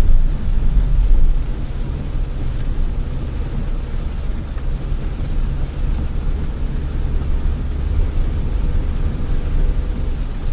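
Inside the cabin of a Honda Elevate driving on wet roads: a steady low drone of engine and tyre noise, loudest in the first second or so.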